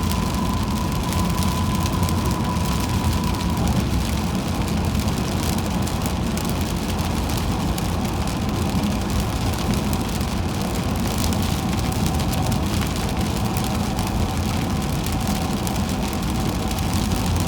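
Car driving on a rain-soaked highway: steady tyre and road noise on the wet pavement with rain on the car over a low rumble.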